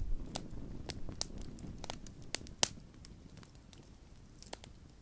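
Wood campfire crackling, with sharp irregular pops from the burning wood.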